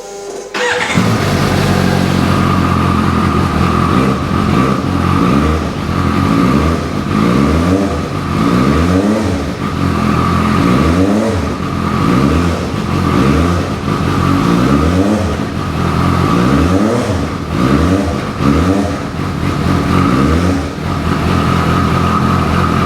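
2016 Suzuki GSR 750's inline-four engine starting just under a second in, idling steadily, then revved in a series of quick throttle blips, each rising and falling.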